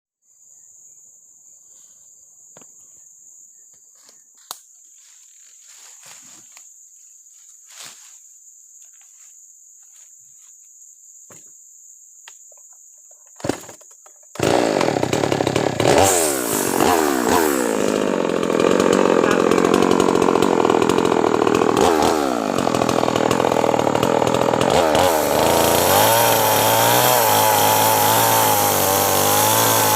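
Steady high-pitched insect drone with scattered small clicks. About halfway through there is a sharp knock, and then a petrol chainsaw starts, revs up and down several times, and settles into a steady run at high revs near the end.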